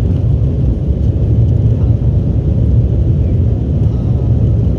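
Steady low rumble inside the cabin of an Embraer E190 jet airliner taking off, its General Electric CF34-10E turbofan engines running at high power with the rush of air past the fuselage.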